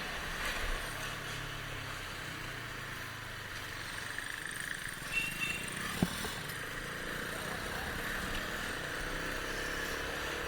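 Motorcycle riding along, with steady engine, wind and road noise. There is a single sharp click about six seconds in. The engine note rises gradually in the last couple of seconds as it picks up speed.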